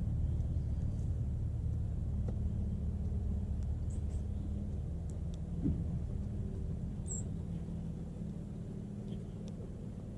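Steady low rumble of a vehicle engine running in the background, with a few short, faint high bird chirps over it; the clearest chirp comes about seven seconds in.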